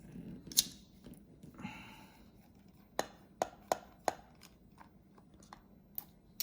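Sharp, scattered clicks and taps of a small screwdriver and metal parts against the hard drive's case as its screws are taken out, with a short scrape about one and a half seconds in.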